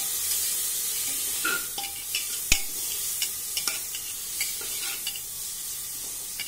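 Onions, tomatoes and ground spices sizzling in oil with a splash of water in a pressure cooker, stirred with a metal spatula that scrapes and taps against the pot. The sizzle is steady under irregular clicks, with one sharp knock about two and a half seconds in.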